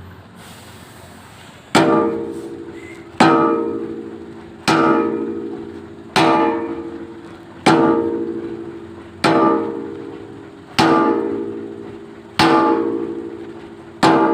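Hammer blows on a steel excavator bucket pin, struck nine times at an even pace of about one every second and a half, each blow ringing on and dying away before the next: the pin being driven into the bucket's new bushings.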